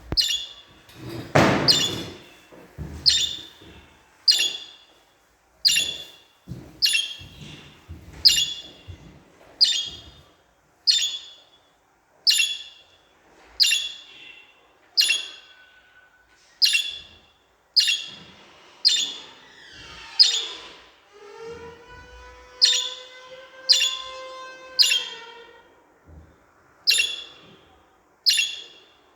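Budgerigars calling: short sharp chirps repeated a little over a second apart, with a louder harsh burst about a second and a half in. About two-thirds of the way through, a longer warbling chatter with held tones.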